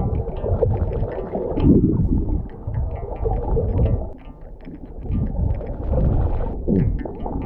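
Muffled underwater gurgling and bubbling of a diver in a river pool, uneven, with almost nothing above a low rumble.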